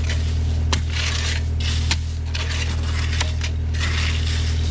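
Komatsu excavator's diesel engine running steadily while its bucket scrapes and crunches through stone, with loose stones clattering and a few sharp knocks.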